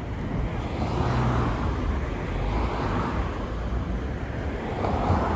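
Road traffic: a steady low engine rumble, with the noise of passing vehicles swelling and fading about three times.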